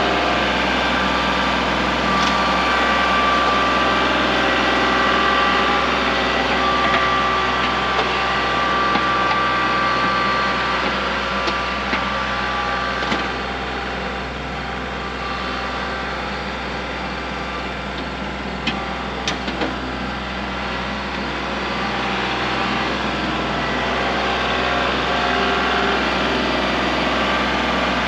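Kubota L3901 compact tractor's diesel engine running steadily while grading with a box blade. It eases off somewhat in the middle, and a few sharp knocks come about two-thirds of the way through.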